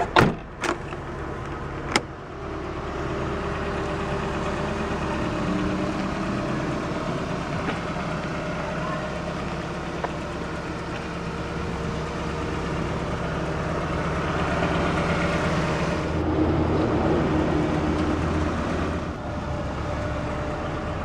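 1992 Nissan Stanza XE's 2.4-litre four-cylinder engine idling steadily, heard from outside the car. A few sharp knocks come in the first two seconds. The engine grows a little louder for a few seconds past the middle.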